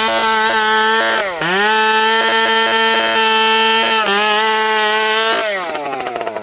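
Dolmar two-stroke chainsaw revved to full throttle and held there at a steady high pitch, dropping back briefly and climbing again about a second in, then falling back toward idle near the end.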